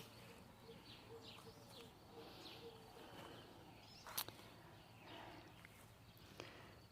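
Faint outdoor birdsong: scattered short chirps, with one sharp click about four seconds in.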